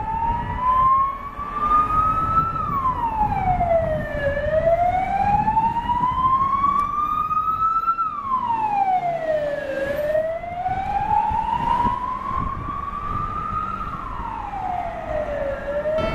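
Fire engine siren in wail mode: the pitch climbs slowly and drops back more quickly, about every five to six seconds, over the rumble of the truck's engine and tyres.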